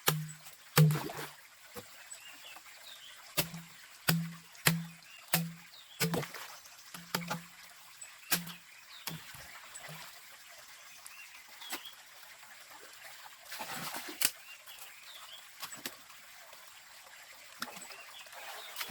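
A series of hollow knocks, each with a short low ring, about one to two a second, stopping after about ten seconds. Faint chirps and scattered clicks sound behind them.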